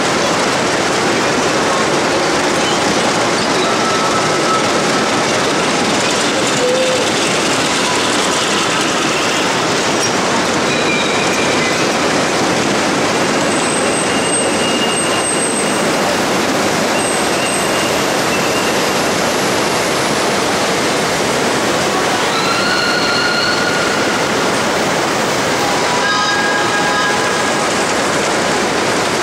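5-inch gauge live-steam model trains running, heard as a loud, steady, dense noise, with brief high-pitched tones here and there and a cluster of them about three-quarters of the way through.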